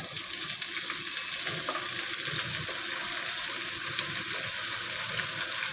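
Bones sizzling steadily as they are tipped into hot oil with browned garlic and ginger in a pot, being seared before stock is made, with a few light knocks as they are scraped in.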